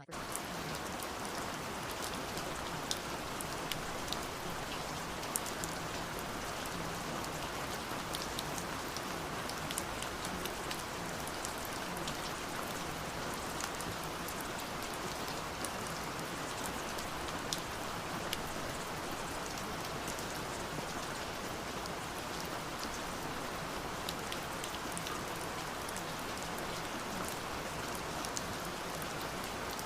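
Steady rain falling, a continuous even hiss with many scattered drops ticking on a surface.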